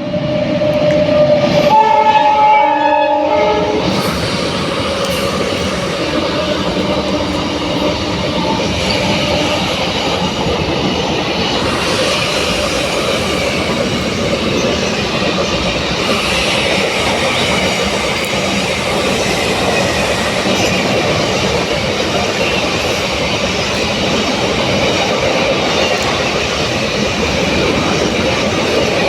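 Goods train running through a station without stopping: the locomotive horn sounds for about two seconds near the start, then the wagons pass in a steady rattle and clatter of wheels on the rails.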